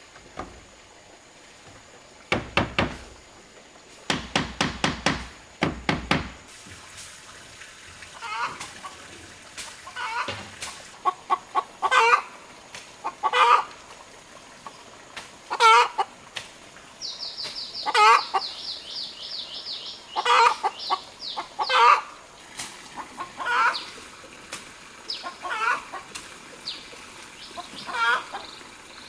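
Chickens clucking over and over, short calls about a second apart, with a fast high-pitched chirping trill partway through. Before the clucking begins, three quick runs of loud rattling scrapes.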